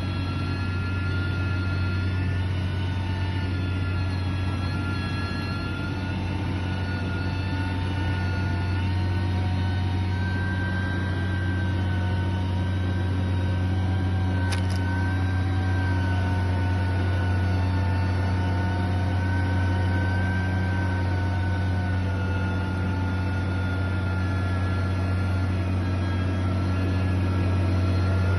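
Heavy machinery's diesel engine running steadily under a constant low drone, its pitch wavering slightly. There is a brief sharp tick about halfway through.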